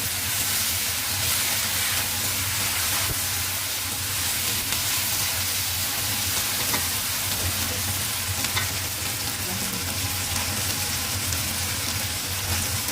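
Food sizzling steadily in a hot pan while being stirred, over a steady low hum.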